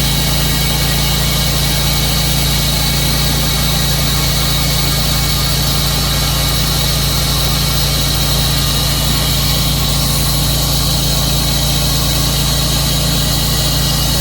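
Tru-Cut sawmill's engine running steadily as the mill saws a slab off a pine log.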